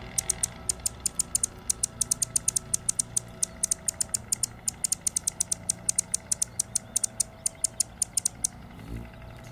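A bird giving a rapid, irregular series of short, high-pitched chip notes, several a second, stopping shortly before the end, over a steady low hum.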